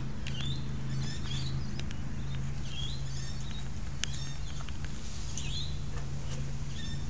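Small birds chirping: short, repeated high calls about once a second over a steady low hum, with a few sharp clicks.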